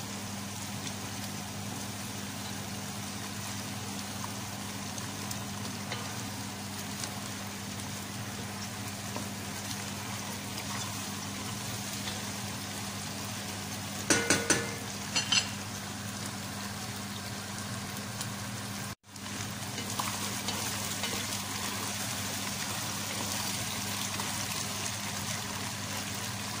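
Chicken pieces, onion and garlic sizzling steadily as they brown in hot oil in a pot. A few sharp knocks come about two-thirds of the way to the middle, and the sound cuts out for an instant a little later.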